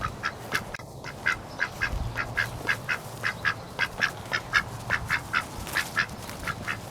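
Domestic ducks from a mixed flock of Pekin, Rouen-cross, Silver Appleyard and Cayuga ducks, quacking in a steady series of short calls, about three a second.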